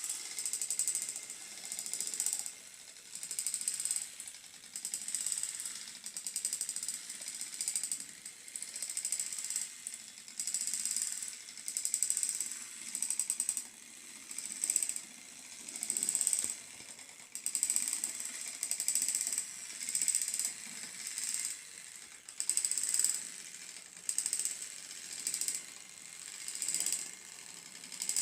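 Battery-powered Thomas toy train engine running along its track, its small motor and gearbox giving a fast ratcheting clatter that swells and fades about every second and a half.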